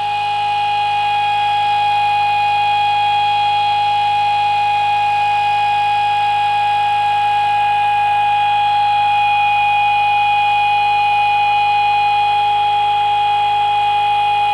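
Pulse motor running at about 3000 rpm on 24 volts under full load, with its alternator coils shorted out. It gives a steady high-pitched whine with several higher overtones.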